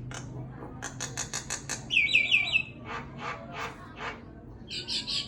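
A pet bird calling: a quick run of sharp chirps, then four fast ringing chirps, the loudest, about two seconds in, followed by more scattered calls and another burst near the end.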